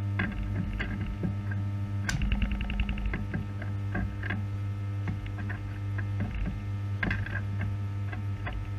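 AC arc welder humming steadily with irregular crackles and pops from the arc while stick-welding aluminium with a 3.2 mm aluminium arc rod.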